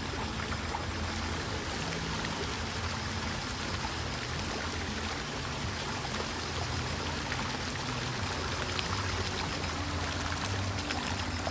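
Rainwater runoff pouring and trickling steadily down a concrete hillside path: storm water still draining off the hills after heavy overnight rain.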